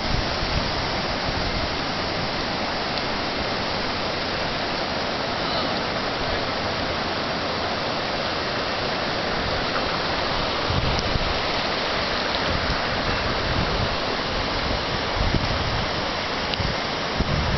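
Steady rushing of fast-flowing floodwater, with a few brief low wind buffets on the microphone.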